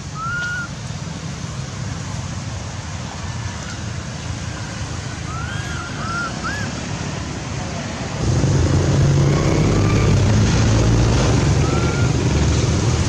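Steady outdoor rumble that grows louder about eight seconds in, with a handful of short chirps rising and falling in pitch: one near the start, three in quick succession midway, and one near the end.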